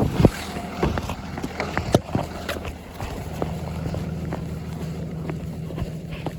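Transit bus running underway, heard from inside the cabin: a steady low engine and fan drone, firming up about halfway through, with scattered rattles and clicks from the interior.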